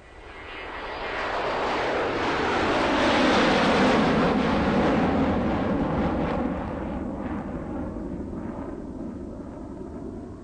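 Aeroplane passing by: a rushing engine and air noise that swells over about four seconds, then slowly fades away.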